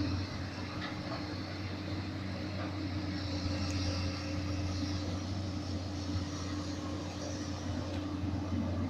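Komatsu PC200 hydraulic excavator's diesel engine running steadily at working revs, a constant low drone.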